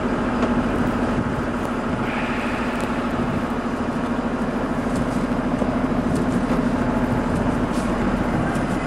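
A motor vehicle's engine running steadily close by, its low hum carried over a constant rush of street noise.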